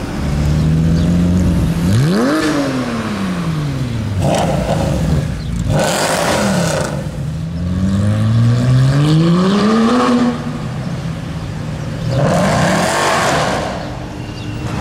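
Mercedes C63 AMG Black Series' 6.2-litre V8 revving and accelerating past. The pitch shoots up and falls away, then climbs steadily for a few seconds before dropping off, with short bursts of rasping noise in between.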